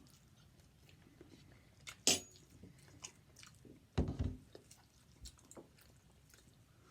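Close-up chewing and mouth sounds of someone eating chicken and waffles, with two louder, sudden sounds about two seconds and four seconds in.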